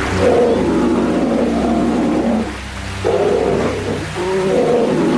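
Brown bears fighting, roaring and growling in two long bouts with a short break about halfway through.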